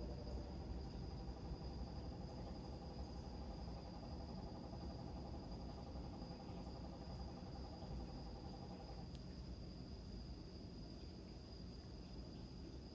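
Crickets trilling steadily at two high, continuous pitches over a low rumble. A lower, finely pulsed trill runs alongside and stops about nine seconds in.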